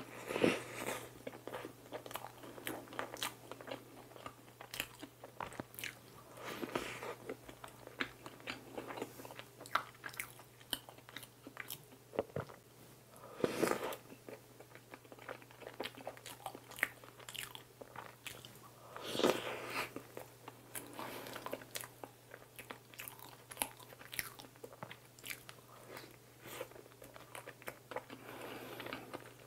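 Close-up biting and chewing of soft, cakey Full Moon bread dipped in warm cream, a steady run of small clicks and crackles with a few louder moments, and light crunching of sugar granules in the strawberry cream filling.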